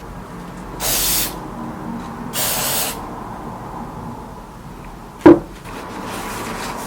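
Two short hisses of Loctite activator sprayed from an aerosol can, one for each of the two surfaces to be bonded: the first about a second in, the second a little over a second later. Near the end comes a single sharp knock, the loudest sound.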